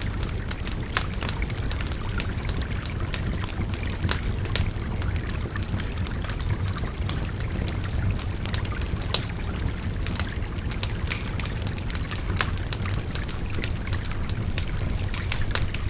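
Wood fire crackling, with frequent sharp pops, over the steady rush of a babbling river.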